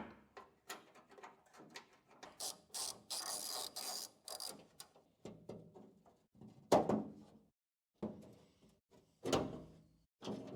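Hand tools and metal and plastic parts being worked by hand: scattered clicks, a stretch of rapid rattling clicks a few seconds in, and two sharp knocks, the louder one about two-thirds of the way through.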